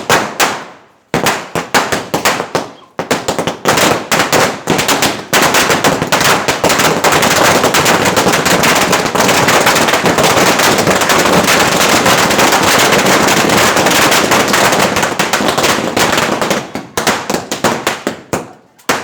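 A thousand-wala firecracker string going off: scattered sharp bangs at first, then several seconds of dense, rapid-fire crackling like a machine gun, thinning out to a few last pops near the end.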